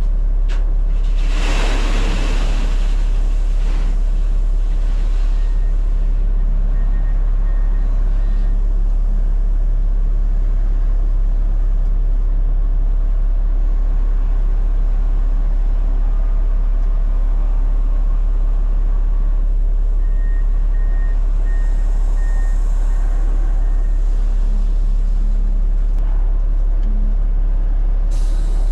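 Peterbilt 589 dump truck's diesel engine running steadily as a deep, unbroken hum, with a brief hiss of air about two seconds in.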